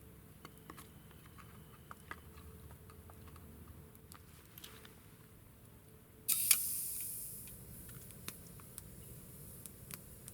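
Cooking on a small wood-chip camp stove: faint clicks and ticks, then about six seconds in a sudden loud hiss that fades away over a couple of seconds.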